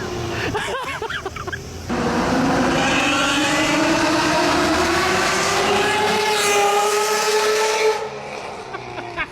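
V12 car engine under hard acceleration, its pitch climbing steadily for about six seconds, then dropping away suddenly as the throttle closes. The first two seconds hold a quieter, wavering tone.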